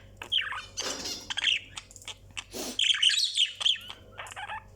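Male budgerigar warbling: a rapid, uneven jumble of short chirps, squeaks and clicks with brief pauses between clusters.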